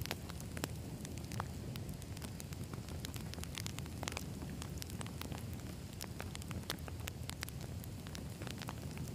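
Campfire of burning wood logs crackling: a steady low rumble of flames with irregular sharp pops and snaps several times a second.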